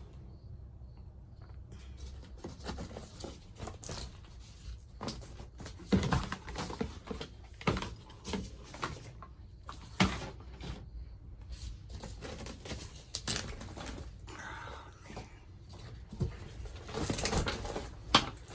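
Scattered knocks, clicks and scraping from hands pulling up the floor covering inside a car, with a few sharper knocks and a louder tearing, rustling stretch near the end.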